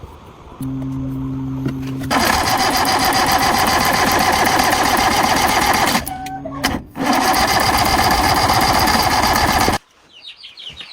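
A motor-driven machine gives a short low hum, then runs with a loud, fast, rhythmic buzz in two long bursts. The bursts are broken by a pause of about a second and cut off suddenly near the end.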